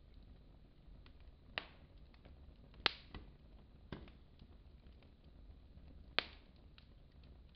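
Wood fire in a fireplace crackling: a handful of sharp pops, the loudest about three seconds in, with faint small ticks between them.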